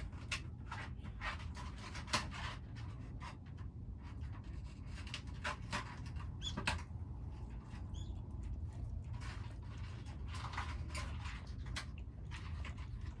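Feral kittens eating from a dish: irregular small crunching and clicking sounds of chewing and of food being nosed about, over a steady low background rumble.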